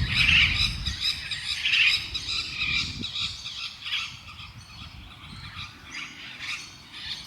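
A parrot calling in a series of short squawks and chirps, louder in the first couple of seconds and fainter toward the end.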